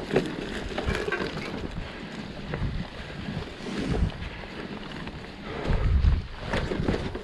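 Mountain bike riding over rough ground: irregular knocks and clatters from the tyres and frame, with wind rumbling on the microphone. The loudest thumps come about six seconds in.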